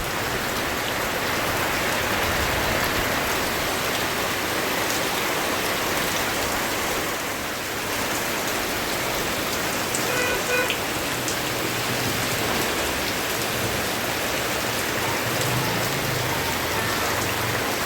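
Steady rain falling, a continuous even hiss of drops hitting surfaces, with a few short faint tones about ten seconds in.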